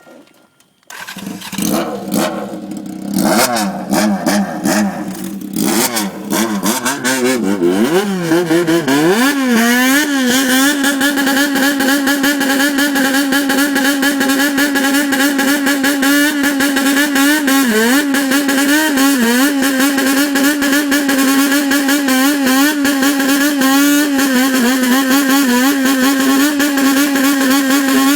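Honda CBX400F's air-cooled inline-four revved hard through a Nakano 4-2-1 exhaust with a 50.8 mm tailpipe, in a high-rev 'call': uneven throttle blips rising and falling for the first several seconds, then held near the top at a steady high pitch that wavers slightly with small throttle movements.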